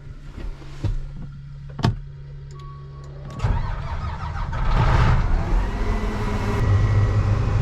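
Combine harvester powering up after a couple of sharp clicks: about three and a half seconds in, a low steady hum gives way to loud running machinery. Shortly after, a whine rises and then holds at a steady pitch.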